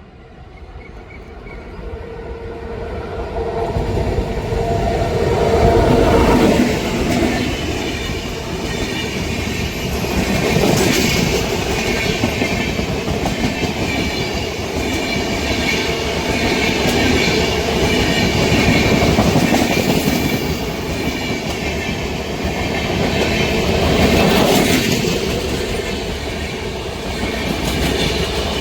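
An Indian Railways express train passing at speed. Its sound builds over the first few seconds as it arrives, then the coaches roll by with a steady rumble and clickety-clack of wheels over the rail joints, swelling several times.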